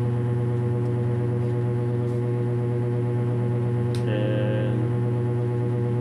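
Electric fan running, a steady droning hum with several steady tones over it. A brief higher sound comes about four seconds in.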